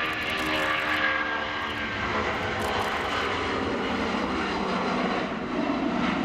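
Rolls-Royce RB211 engines of a Boeing 757 at take-off power, heard from outside. Several whining tones fall in pitch over the first two seconds, over a steady rush of jet noise.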